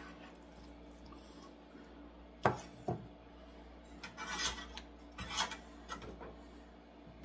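Kitchen knife slicing chicken breast on a cutting board: two sharp knocks of the blade on the board about two and a half seconds in, then two short spells of scraping strokes.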